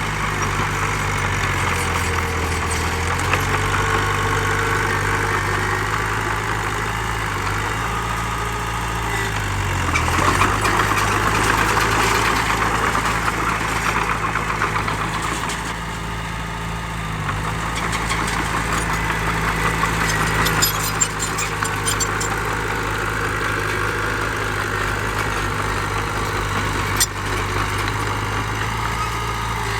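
Heavy diesel engine of earthmoving machinery running steadily, its pitch dipping briefly a couple of times as the load changes, with a rough clatter over it and a couple of sharp clicks late on.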